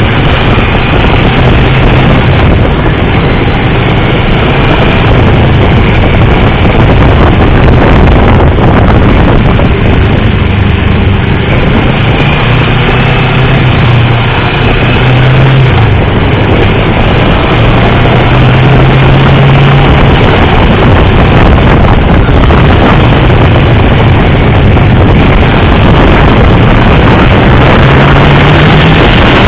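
Motorcycle engine running hard at track speed, heard from on board the bike, its pitch climbing in several long pulls under throttle and dropping back, over a loud steady rush.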